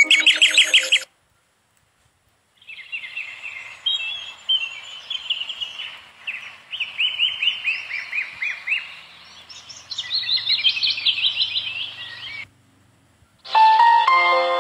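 Songbirds singing: runs of quick, repeated chirps and trills, with a short break of silence about a second in. Near the end the birdsong stops and music with sustained chime-like notes begins.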